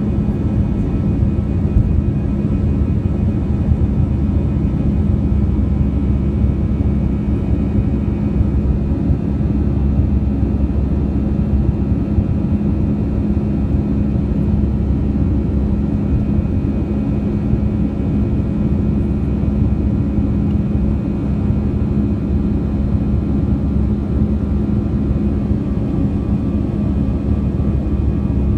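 Jet engines of a Peach Aviation Airbus A320 running steadily: an even low rumble with a constant hum, no rise or fall in pitch or loudness.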